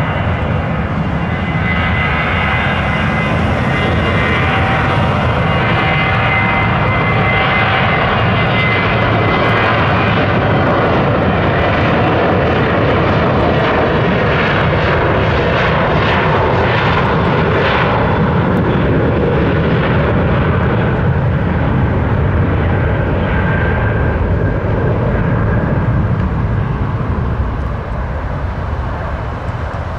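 Aircraft engines running loud and steady as an airliner passes on the runway, with whining tones that slowly drop in pitch over a low rumble; the noise eases off near the end.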